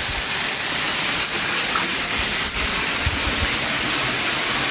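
Waterfall rushing: a steady, loud, hissing roar of falling water.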